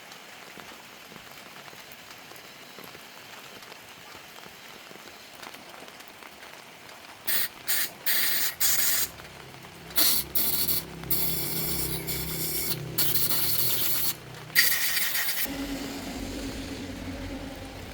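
Compressed air hissing from a nozzle in about seven short on-off bursts, with a low hum underneath during the later bursts.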